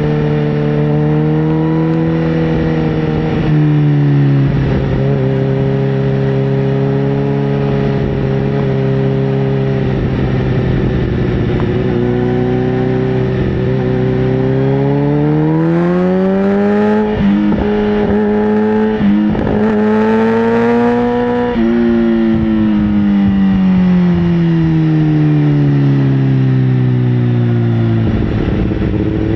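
Sportbike engine running under way, holding a steady pitch, then revving up for several seconds with two brief breaks partway through, then winding down steadily as it slows.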